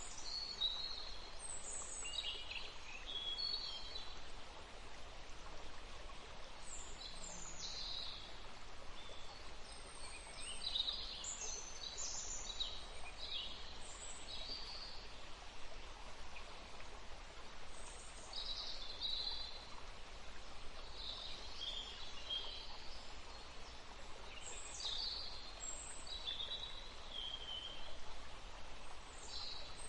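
Forest songbirds singing and calling in short, high phrases every second or two, over the steady rush of a forest stream.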